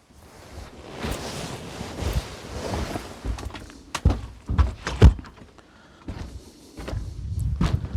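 A door being opened and shut: a run of thunks and clicks, the loudest about five seconds in, with a low rumble near the end.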